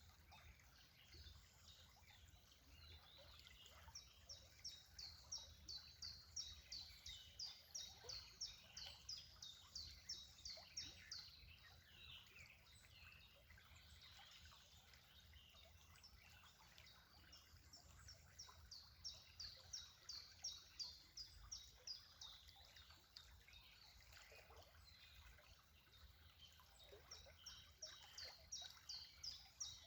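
Faint songbird chirping: long series of short, high, quick notes, about two or three a second, coming in bouts, over a low background rumble.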